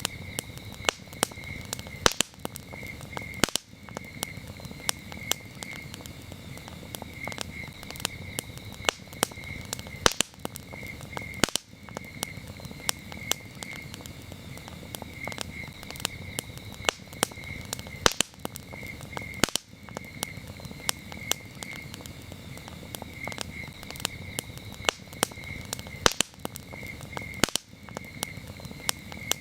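Campfire crackling, with frequent sharp pops over a low steady rumble of burning wood. Crickets chirp throughout in short pulsed trills that repeat every second or so.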